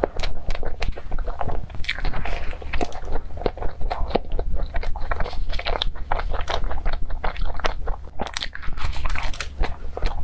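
Biting into and chewing a cream puff with a crackled sugar-crust shell and cream filling: many quick, irregular mouth clicks, smacks and crunches.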